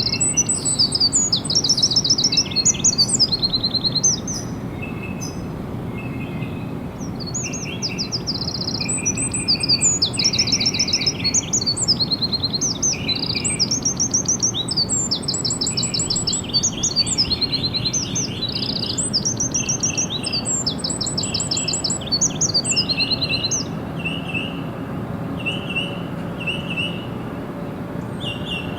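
Songbirds singing in a dense chorus: high, rapid trilled phrases and chirps overlapping one another, over a steady low rumble of background noise. Near the end the song thins to short chirps repeated about once a second.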